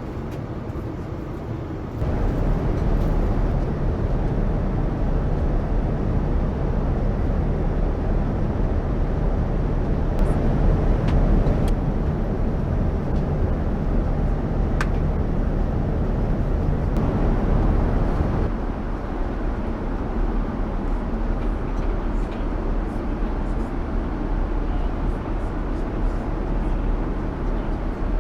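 Steady rushing cabin noise of a Boeing 787-9 in flight, air and engine noise heard from inside the cabin. It steps up in level about two seconds in and eases back a little about two-thirds of the way through.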